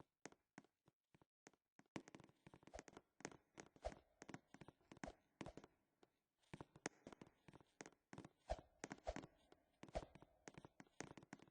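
Near silence with faint, irregular clicks and taps, scattered and more frequent after about two seconds.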